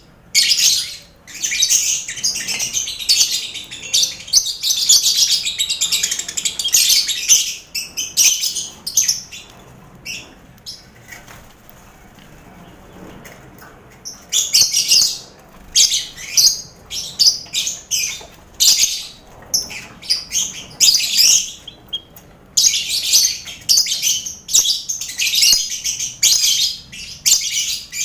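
Colony of lovebirds with finches in an aviary, chattering in dense high-pitched chirps. The calling thins almost to a lull for a few seconds near the middle, then picks up again.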